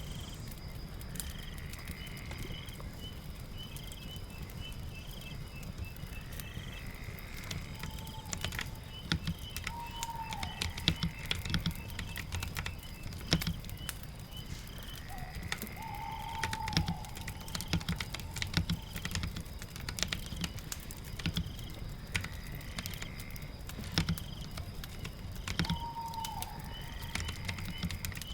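Typing on a computer keyboard in irregular clicks, thickening from about eight seconds in, over a steady low background rumble. Birds call in short repeated phrases throughout.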